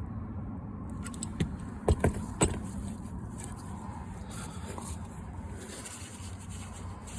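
A few sharp clicks and knocks about two seconds in, from tools or parts being handled, over a steady low hum.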